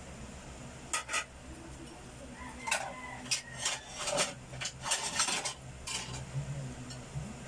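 Dishes and cutlery clinking and scraping: a couple of sharp clicks about a second in, then a busy run of clatters in the middle.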